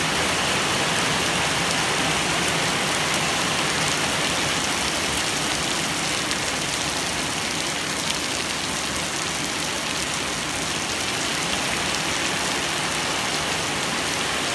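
Heavy rain pouring down, a steady, dense hiss that does not let up.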